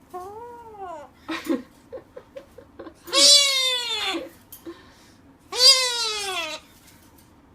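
Meowing: three drawn-out meows, each rising slightly then falling in pitch, with a fainter call and a quick run of short chirps between the first two.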